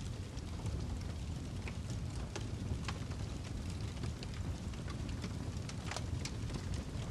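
Wood fire burning in a fireplace: a low steady rumble of flame with irregular sharp crackles and pops from the burning log, one louder pop about six seconds in.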